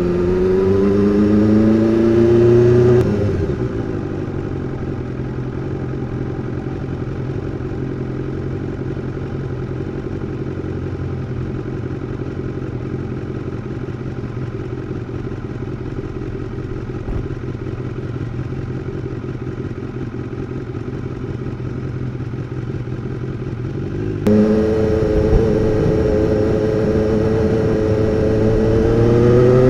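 2016 BMW S1000R's inline-four engine: rising in pitch under acceleration for the first few seconds, then dropping to a steady low idle for about twenty seconds. Near the end it suddenly gets louder and climbs in pitch again as it accelerates.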